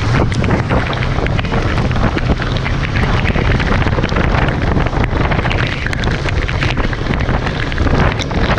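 Heavy wind buffeting the microphone during a ride in a rainstorm: a loud, steady rush with a deep rumble and many sharp ticks throughout.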